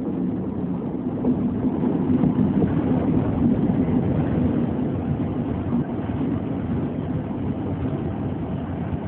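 Class 60 diesel locomotive passing close, followed by its train of coal hopper wagons rolling by with a steady rumble, loudest a few seconds in.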